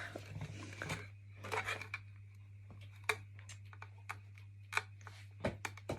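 Scattered small clicks and taps of a plastic window bird feeder and its suction cups being handled and pressed onto the glass, with a steady low hum underneath.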